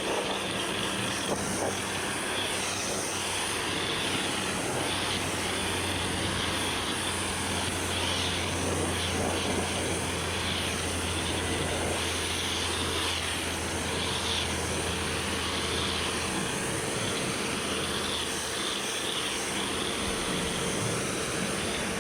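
Kärcher pressure washer running steadily: a constant motor hum under the dense hiss of the spray, with the deepest part of the hum dropping away about two-thirds of the way through.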